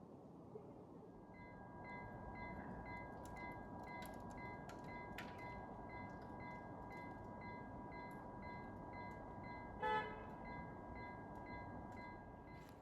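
Railway level-crossing warning bell ringing steadily, about two dings a second over a faint continuous tone. About ten seconds in, a train horn gives one short toot.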